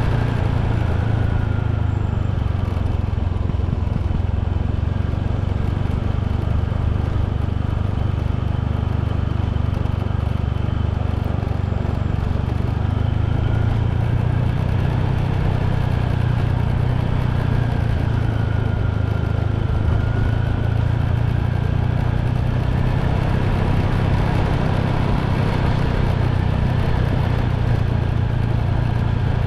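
Motorbike engine running steadily while riding at an even speed, a low hum under road and wind noise, with a faint whine that slowly wavers in pitch.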